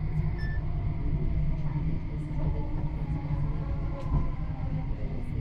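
S-train, an electric commuter train, running along the track, heard from inside the carriage as a steady low rumble.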